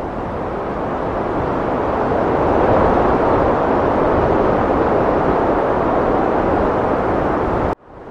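Heavy wind blowing as a steady rushing noise that swells about a third of the way in. Near the end it cuts out suddenly for a moment, then comes back.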